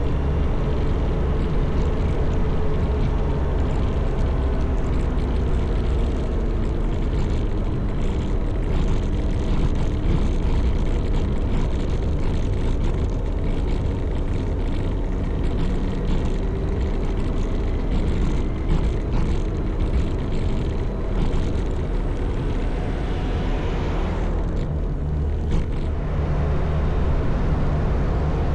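Motorcycle engine running at road speed with wind rushing past, its pitch wavering as the throttle changes; the wind noise dips briefly near the end.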